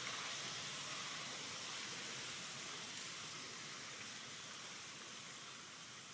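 Light rain falling, an even hiss that slowly fades away.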